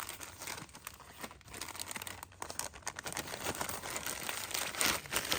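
Packaging crinkling and rustling in irregular crackles as it is handled and opened.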